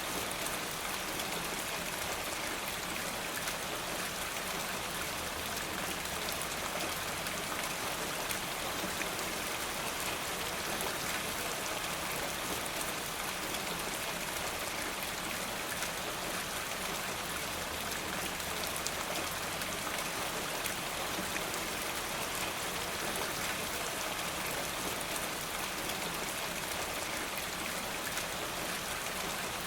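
Steady rain falling, a continuous even hiss with a dense patter of individual drops.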